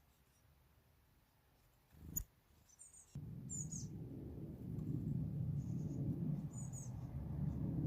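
Small birds giving short, high chirps, with a single knock about two seconds in. About three seconds in, a loud low rumble starts suddenly and continues, drowning everything else.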